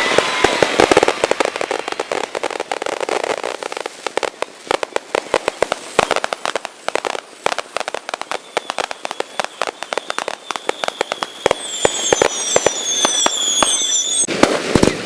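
Fireworks crackling: a dense run of sharp pops and crackles. In the last few seconds whistling fireworks join in, with a held high whistle and several short falling whistles.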